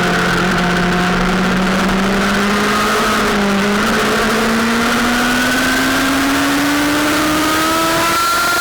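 Sportbike engine pulling under load, its pitch climbing slowly as the revs build through one gear, with a brief slight dip about three and a half seconds in. A heavy rush of wind noise sits under it.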